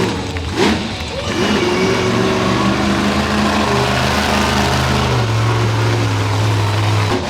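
Monster truck engine running hard and revving, its pitch shifting a few times as the throttle changes.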